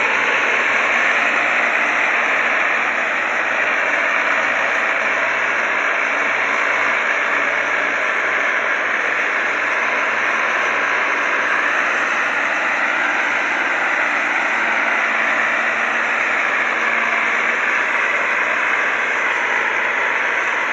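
Fiat tractor engine running steadily.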